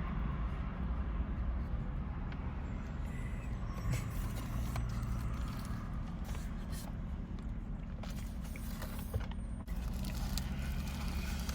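Steady low vehicle rumble, with faint scrapes and clicks now and then.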